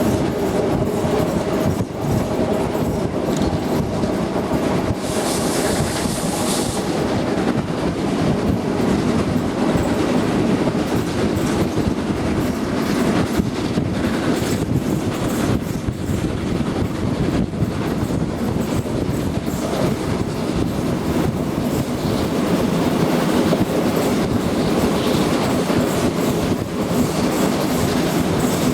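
Passenger train running along the track, heard riding in the train: a steady rumble with the wheels clicking over rail joints. A brief high hiss comes about five seconds in.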